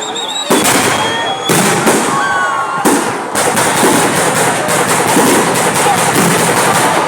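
Fireworks going off: a few separate loud bangs in the first three seconds, then a dense, rapid crackling for the rest, with crowd voices underneath.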